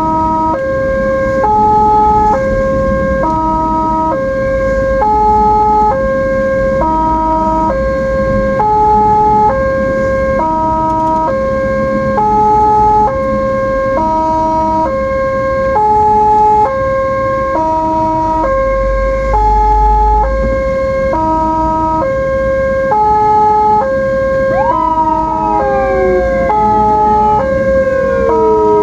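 Ambulance two-tone hi-lo siren, alternating steadily between two pitches about every half second, over road and engine hum. Near the end a second siren tone sweeps up and then slowly falls.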